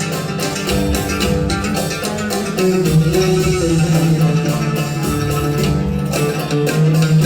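Live oud music: a plucked melody over long-held low notes, with light percussive strokes.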